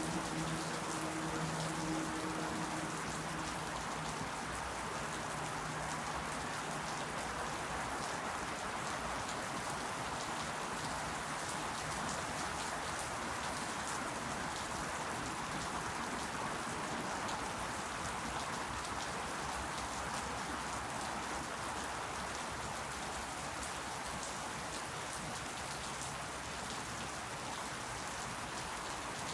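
Steady rain falling, a dense, even patter of drops. A faint low hum fades out in the first few seconds.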